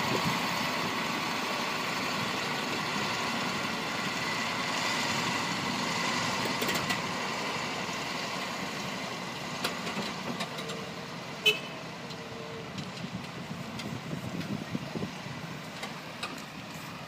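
Heavy construction machinery engine running steadily and slowly fading away, with a few sharp clicks or knocks about two thirds of the way through.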